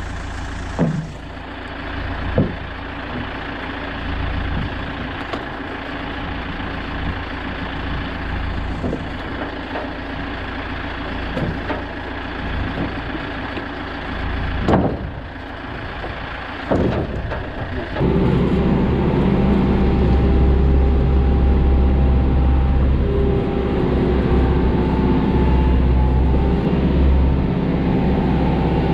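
Kioti RX 7320 tractor's diesel engine running, at first steadily with a few sharp clicks, then brought up to a louder, heavier run about eighteen seconds in.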